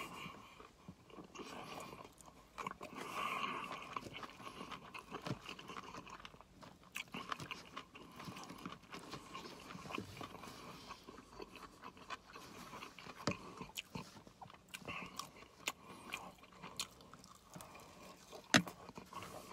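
Quiet close-up chewing and wet mouth sounds of a person eating sauce-covered loaded fries with beef and lettuce, with occasional sharp clicks.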